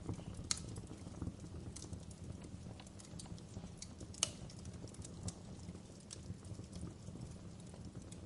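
Wood fire crackling in a fireplace: irregular sharp snaps and pops of burning logs over a low, steady rumble of flame. Two louder pops come about half a second in and about four seconds in.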